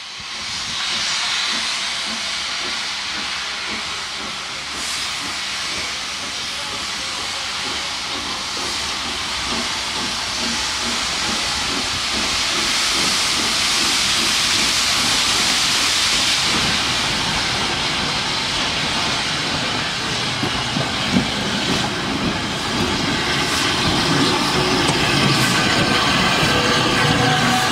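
Steam locomotive 30777 Sir Lamiel, a Southern Railway N15 King Arthur class 4-6-0, hissing: a loud, steady hiss of escaping steam that swells somewhat in the middle. A few steady tones join it near the end.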